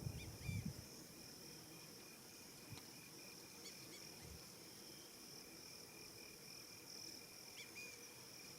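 Faint evening insect chorus, crickets trilling steadily at a high pitch, with a few short bird chirps scattered through it. A low rumble dies away in the first second.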